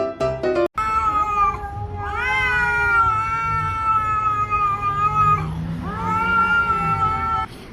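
Domestic cat yowling in three long, drawn-out calls, the middle one the longest, each rising at its start and then held. Piano music stops abruptly just before the first call.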